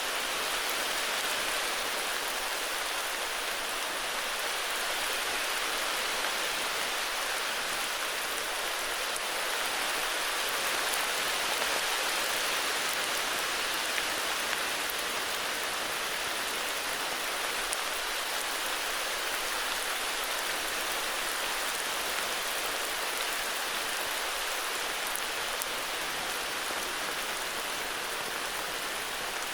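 Steady heavy rain: an even hiss of rainfall with scattered drops ticking on surfaces, no thunder.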